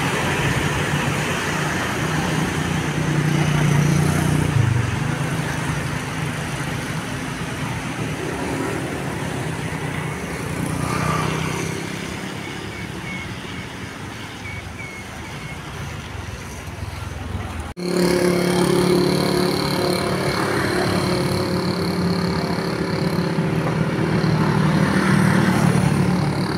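Large road-vehicle engines, likely buses, running and passing on the road, with the engine hum swelling and fading. About two-thirds of the way through there is a sudden cut to another, louder stretch of engine noise.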